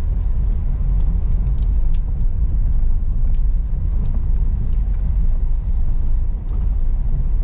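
Car driving over a rough rocky dirt road: a steady low rumble with scattered small knocks and rattles.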